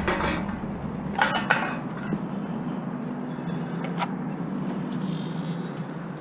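Vehicle engine running steadily, with short metallic clattering and clinking near the start and a sharp click at about four seconds.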